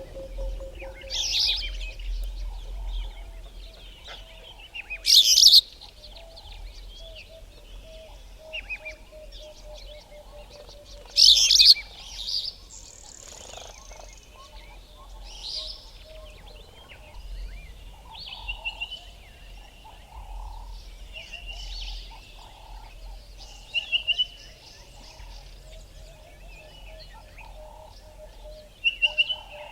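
Bushveld birds calling in a mixed morning chorus: many short chirps and whistles, with two loud sharp calls about five seconds in and again near eleven seconds. A low, rapidly pulsing note runs underneath through most of it.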